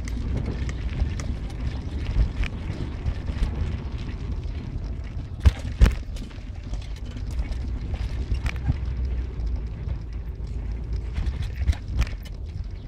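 Steady low road rumble from a moving car, with scattered knocks and rattles, the loudest a pair about halfway through and another near the end.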